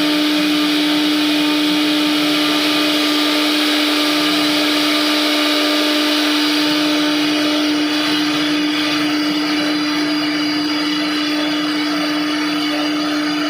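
CNC router spindle running steadily as it cuts into wood: a constant whine over a rough, noisy hiss. The hiss thins a little about halfway through.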